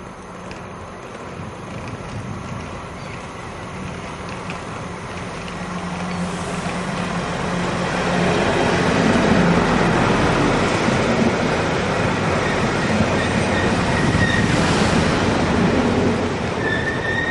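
Electric passenger train passing through the station. Its rumble grows as it approaches and is loudest while the carriages go by, with short high wheel squeals near the end.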